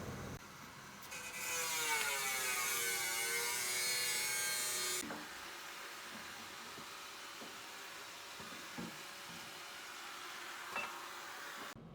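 A power tool runs for about four seconds, its pitch sagging and then recovering as it works under load, and stops abruptly. A softer steady hiss with a few light clicks follows.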